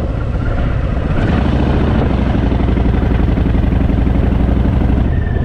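Harley-Davidson Fat Boy's V-twin engine running steadily while the motorcycle is ridden.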